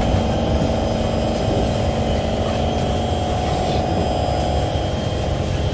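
Kawasaki C151 MRT train running, heard from inside the car: a steady rumble of wheels on rail with a fast, even beat running through it and a steady electric hum. The beat fits the train's severe wheel flats.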